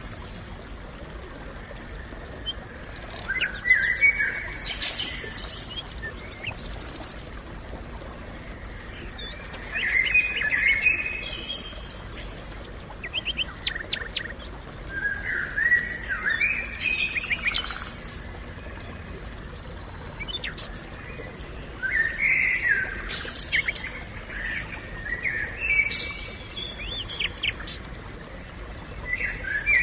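Songbirds singing in a forest: short chirping phrases and quick trills come every few seconds over a steady low background hiss.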